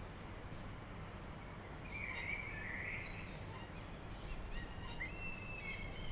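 Birds calling in the open: a harsh, scratchy call about two seconds in, then several short, level whistled notes over the last three seconds, above a steady low outdoor rumble.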